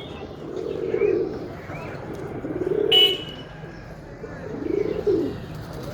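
Domestic pigeons cooing: low, rounded coos about every two seconds. A short, sharp, high-pitched sound cuts in about three seconds in.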